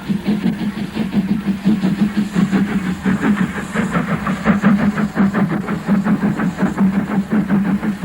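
Stanier Class 5 4-6-0 steam locomotive working hard up a gradient, its exhaust beating fast and evenly at about five beats a second over a steady low hum.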